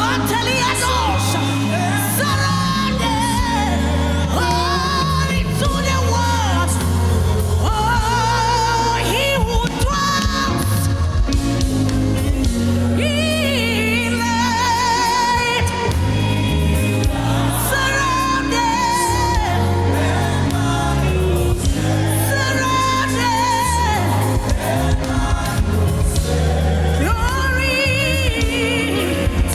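Gospel worship song: a lead voice singing with vibrato and melodic runs over a band with deep, steady bass notes.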